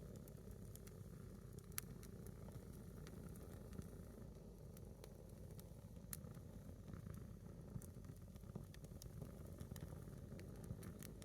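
A single log of firewood burning in a small fire, hissing faintly, with scattered sharp crackles and pops.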